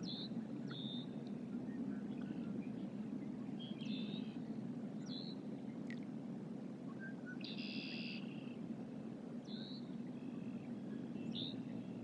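Short, high-pitched calls from small songbirds are scattered over a steady low rumble, with one longer call about eight seconds in.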